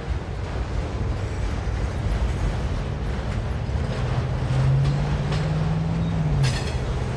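Freight train of autorack cars rolling slowly past: a steady low rumble. A steady low hum comes in about four seconds in and drops a little in pitch near the end.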